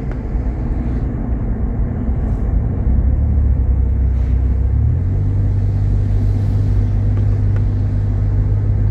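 Jeep Grand Cherokee's 3.7-litre V6 and road noise while driving: a steady low drone that steps up in pitch about five seconds in.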